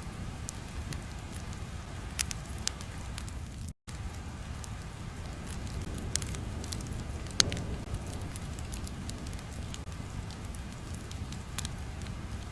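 Crackling fire: a low steady rumble with irregular sharp pops and snaps. The sound cuts out briefly a little under four seconds in.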